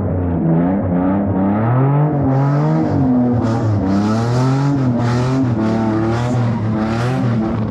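Car engine revving up and down over and over, with surges of tyre noise from about two seconds in, typical of a car being drifted.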